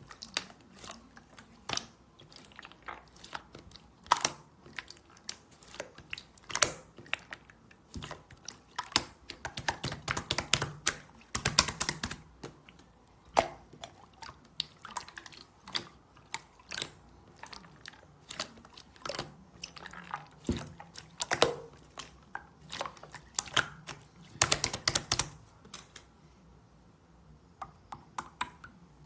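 A run of irregular sharp clicks and taps, close to the microphone, bunching into quick flurries in places.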